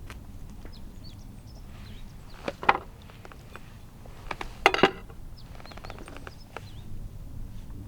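A few sharp knocks and clatters, the loudest about two and a half and nearly five seconds in, among lighter ticks, with faint high chirps in the background.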